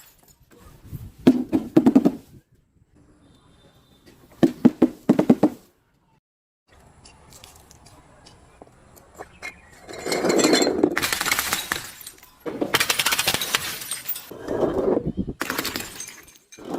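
Glass bottles being broken and crushed: short crunching, clinking bursts a few seconds apart, then longer stretches of crunching from about ten seconds in.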